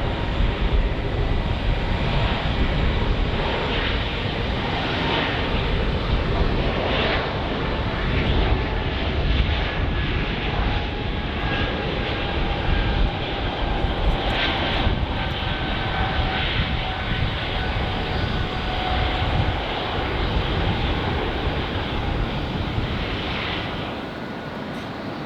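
Jet aircraft engines running loud and steady, a rumble with a faint whine that slowly falls in pitch, easing off slightly near the end.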